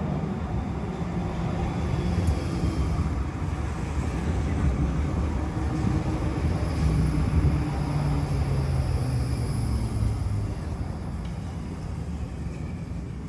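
Tram running: a steady rumble of wheels on rail, with the electric drive's low hum shifting in pitch.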